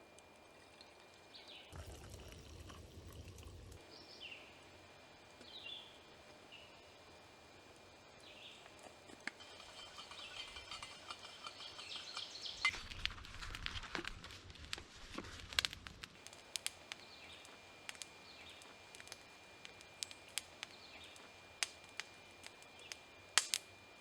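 Quiet woodland ambience: a few faint bird chirps with short falling notes, a faint steady high tone, and scattered sharp clicks that come more often in the second half.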